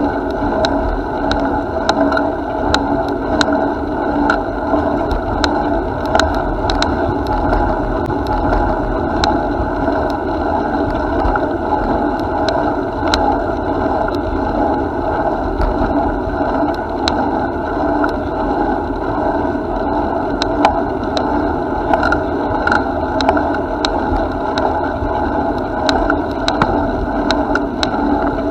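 Steady riding noise of a bicycle in motion: the tyres rolling on the path, with frequent small clicks and rattles throughout.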